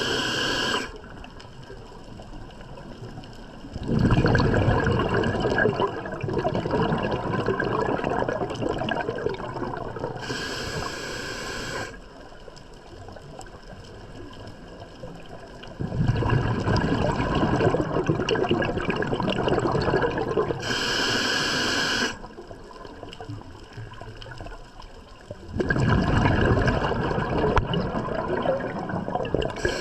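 Scuba diver breathing through a regulator underwater. A short hissing inhale comes roughly every ten seconds, and a long rumble of exhaled bubbles follows each one, about three breaths in all.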